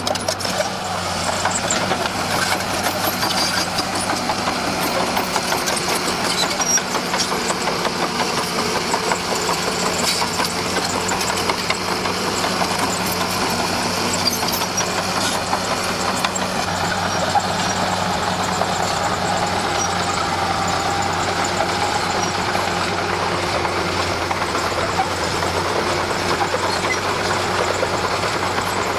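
Komatsu D41P crawler bulldozer's diesel engine running steadily under work, with faint clanks from the machine.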